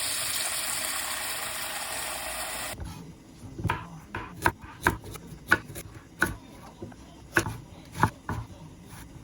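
A steady rushing noise, then a cut about three seconds in to a knife chopping on a wooden cutting board: sharp, evenly spaced strokes, somewhat under two a second.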